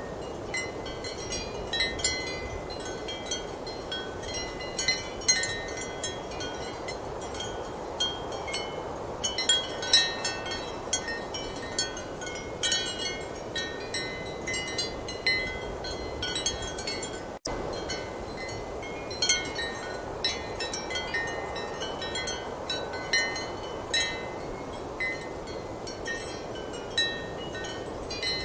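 Ceramic wind chimes clinking irregularly in a strong steady wind, many short bright tones over a constant rush of wind. A split-second dropout about two-thirds of the way through.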